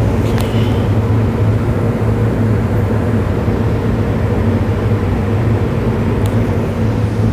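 Steady low drone of motor traffic on a city street, with two faint clicks.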